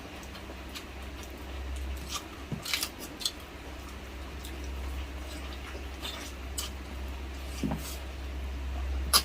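Mouth sounds of eating braised pork: chewing with scattered short, wet clicks and smacks, over a steady low hum.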